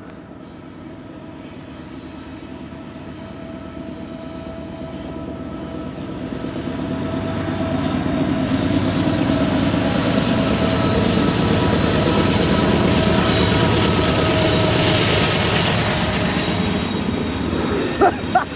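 Norfolk Southern freight train led by diesel locomotive NS 4819 approaching, its engine and wheel noise growing steadily louder for about twelve seconds, then holding loud as the locomotive draws close.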